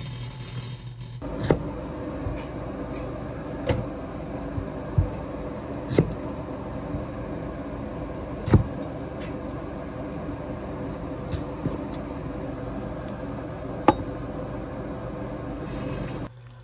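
A steady hum, like a running appliance, that switches on about a second in and stops abruptly near the end. Several sharp knocks and clinks sound over it.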